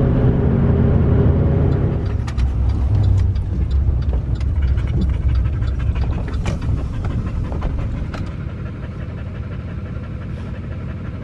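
A vehicle's engine running, heard from inside the cab: its steady hum is strong for about two seconds, then drops back as it slows, with scattered light ticks and crackles. A dog pants.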